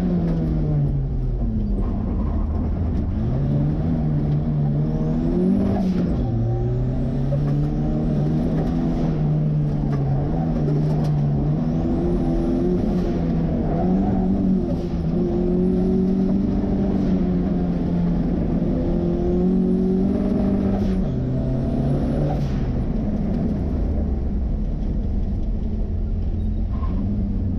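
Turbocharged four-cylinder engine (a Ford 2.3L turbo swapped into a 1963 Volvo) driven hard around an autocross course. Its pitch rises and falls over and over as it accelerates and lifts, with a high turbo whistle climbing on several of the pulls.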